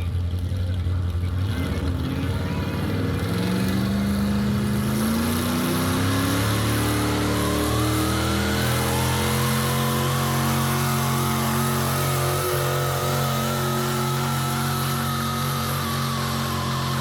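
Pulling vehicle's engine revving up over several seconds and then held at high revs under load, with a high whine above it.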